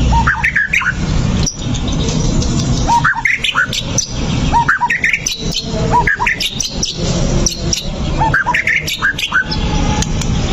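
White-rumped shama singing in five short phrases, each opening on a lower note and climbing into a quick run of higher whistled notes, with gaps of one to two seconds between phrases. Under the song runs a steady low background noise with scattered clicks.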